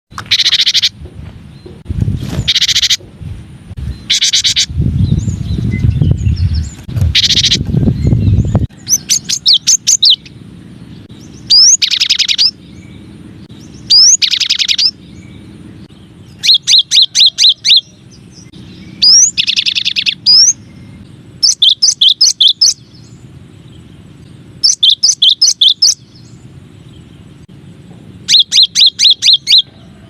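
Cinereous tit (gelatik batu) song: short phrases of rapid repeated high notes and quick rising whistles, one phrase every two to three seconds. A low rumble runs under the first several seconds and stops about nine seconds in.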